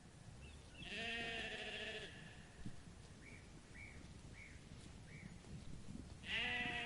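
A farm animal bleating twice, each call quavering and about a second long, some five seconds apart. Four faint short chirps come between the calls.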